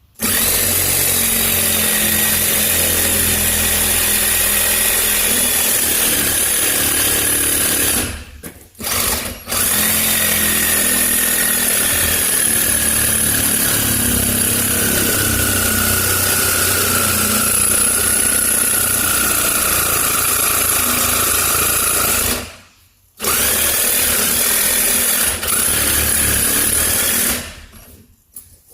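Power tool cutting metal, running under load in long stretches, its whine shifting in pitch. It stops briefly about eight seconds in and again about twenty-two seconds in, then winds down near the end.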